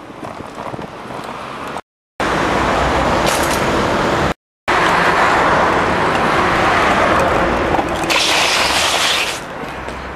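Loud rushing of wind and street traffic heard from a bicycle ridden fast through city traffic, cut twice by a moment of total silence early on, with a brighter hiss for a second or so near the end.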